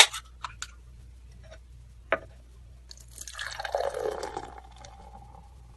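Beer poured into a glass. A sharp clink comes about two seconds in, then the pour swells about three seconds in and trails off into a thin ringing tone.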